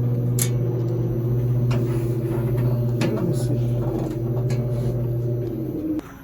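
Inverter running with a loud, steady low hum from its faulty cooling fan, the noise that made the owner call for service, with a few sharp clicks over it. The hum cuts off abruptly near the end.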